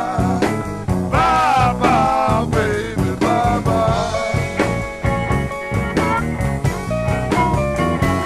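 Electric blues band playing an instrumental break: a lead instrument wails and bends notes, then holds long notes in the middle, over bass and drums.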